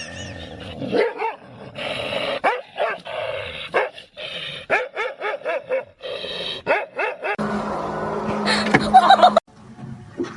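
A dog barking in a quick run of short, repeated barks. A steady hum comes in about seven seconds in and cuts off suddenly near the end.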